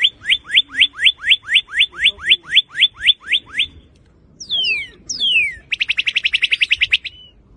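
Northern cardinal singing: a run of about fifteen quick down-slurred whistles, about four a second. After a short pause come two long falling whistles, then a fast trill.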